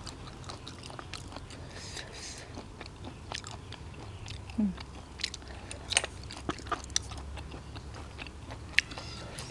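A person chewing and biting food close to the microphone, with scattered wet smacks and sharp clicks of the mouth, over a low steady hum.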